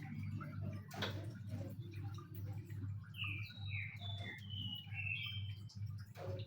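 Small birds in an aviary calling with short whistled chirps, several in a quick run through the middle, some falling in pitch, over a steady low hum. A couple of sharp clicks come about a second in and near the end.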